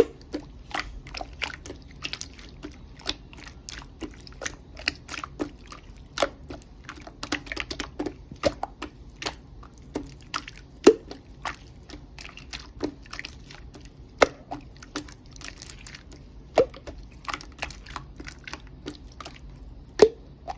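Slime being pressed and kneaded by hand, giving irregular wet clicks and pops, several a second, with a few sharper louder pops now and then.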